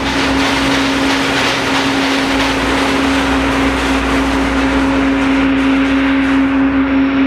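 Boeing 777-200 jet engines running steadily: a loud, even roar with a steady droning tone through it.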